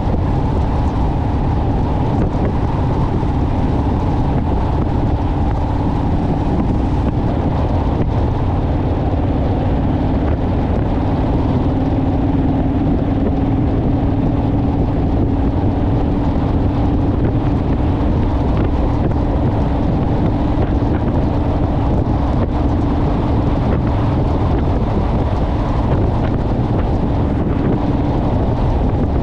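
Honda Rebel parallel-twin motorcycle engine running at a steady cruising speed, with heavy wind rushing over the microphone.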